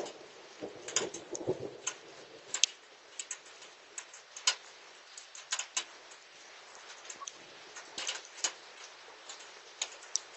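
Hailstones striking a hard surface in a hailstorm: sharp, irregular ticks a few times a second over a faint hiss of rain.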